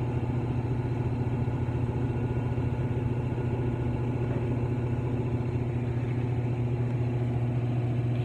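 Whirlpool washing machine vibrating hard on its second spin: a steady low hum with a fast rattling flutter.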